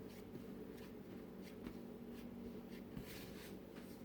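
Faint soft rubbing and light taps of hands kneading bread dough, over a low steady hum.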